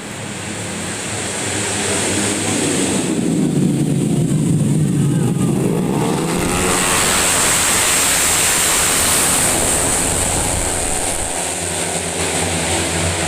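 Tuned 130 cc automatic scooters racing at high revs, their engine note sweeping down and back up about halfway through as they pass.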